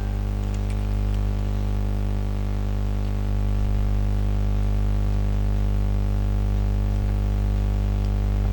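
Steady electrical mains hum, a low buzz with many overtones that holds unchanged throughout.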